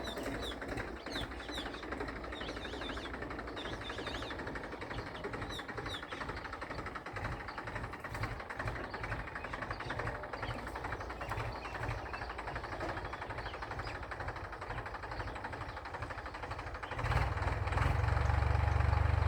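Massey Ferguson tractor's diesel engine running under load while pulling a plough, with a steady rapid pulse. About seventeen seconds in it becomes much louder and deeper.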